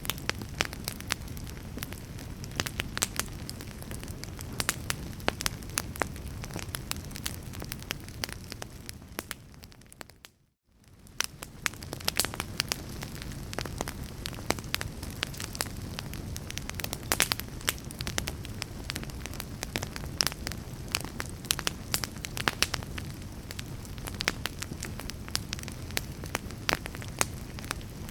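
A fire crackling, with frequent sharp pops and snaps over a low steady rumble of flames. The sound fades away about ten seconds in and fades back up a moment later.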